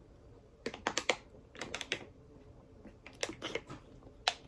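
Close-up chewing of crispy fried food: short clusters of crunchy crackles and mouth clicks, four or five bursts about a second apart.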